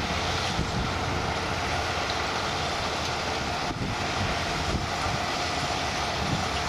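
Farm machinery, potato harvester and tractor engines, running steadily, with a faint steady whine above the engine drone and wind on the microphone.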